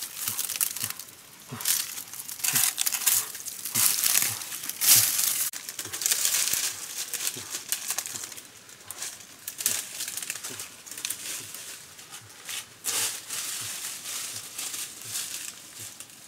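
Irregular crackling and rustling, a dense run of short, uneven bursts with no steady rhythm.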